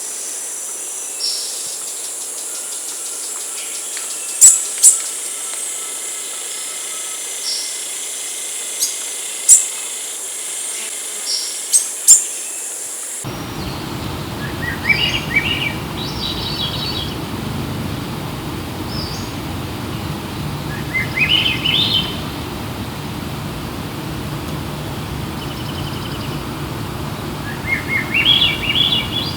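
Wild birds calling: sharp, high chirps over a steady high hiss of insects, then, after an abrupt change about halfway through, a bird repeating a short phrase of quickly rising notes three times over a low background rumble.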